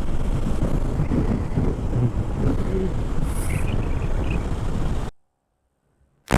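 Motorcycle riding through city traffic: a steady rumble of engine, road and wind noise, which cuts off abruptly to silence about five seconds in.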